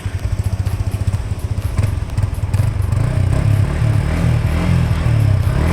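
Yamaha XSR 155's single-cylinder engine running steadily, with a rapid, even low firing pulse.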